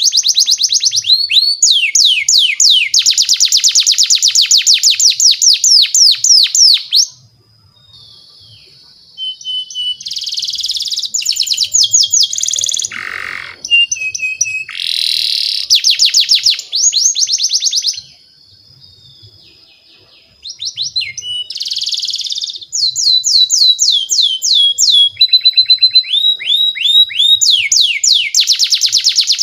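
Domestic canary singing: long phrases of fast trilled notes repeated many times a second, alternating with higher steady whistled notes, with two short pauses.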